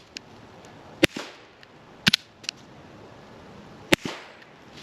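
Four sharp, spaced shots from a B&T Hush Puppy, a 9mm Glock 19 fitted with a wiped suppressor. The wipes are still holding up after 30-plus rounds.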